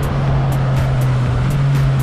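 Yamaha XSR900's inline three-cylinder engine running at steady revs under way, its pitch dipping slightly at the start and then holding, over wind rush on the onboard microphone.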